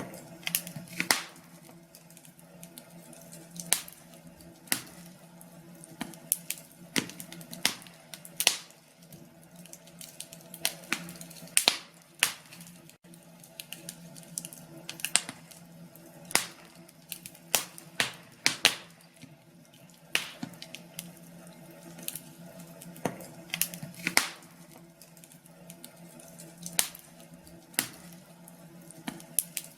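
Wood fire crackling in a fireplace: irregular sharp pops and snaps, about one every second or so, over a low steady hum.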